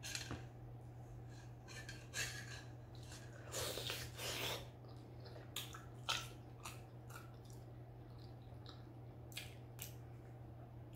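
Close-miked eating sounds: wet chewing, lip smacks and small clicks of the mouth, with a louder, wetter stretch about four seconds in.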